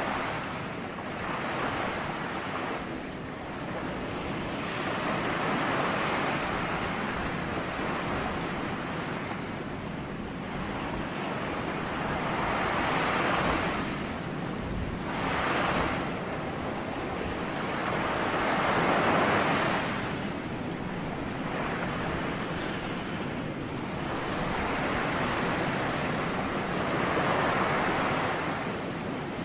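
Ocean surf: waves breaking and washing on a shore, swelling and falling away every few seconds.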